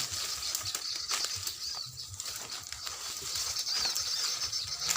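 Small songbird calls: short, thin, high chirps repeated every half second to a second over a steady high hiss, with a few faint clicks.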